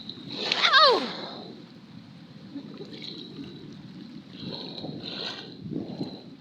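A loud wavering cry that falls in pitch, lasting under a second, about half a second in, followed by fainter cries near the end over a steady high-pitched whine; the uploader takes it for a mysterious roar.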